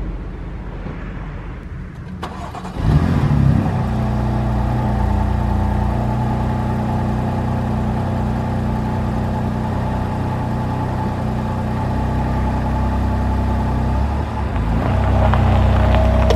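BMW M4 CS's twin-turbo 3.0-litre inline-six (S55) with an Akrapovic exhaust starting up with a sudden loud flare about three seconds in, then settling into a steady idle; the note rises slightly near the end.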